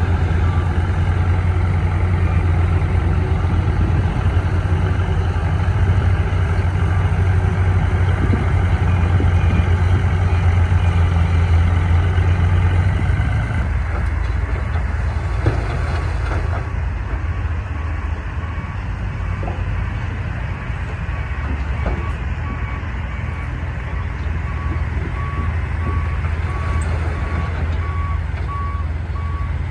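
Heavy diesel engine of earthmoving machinery running, loud and steady at first, then easing off about halfway through. After that a reversing alarm starts, a repeated single-pitch beep.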